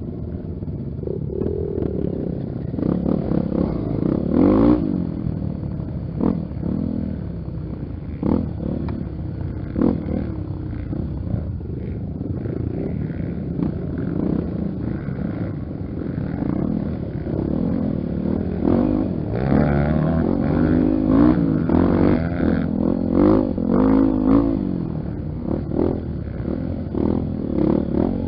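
Honda XR 250 Tornado's single-cylinder four-stroke engine running on a dirt trail, its revs rising and falling, with frequent knocks and rattles from the bike over rough ground. The revs climb higher about two-thirds of the way through.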